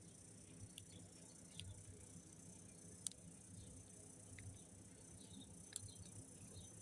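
Faint, steady high-pitched chorus of crickets, with a few short sharp ticks scattered through it.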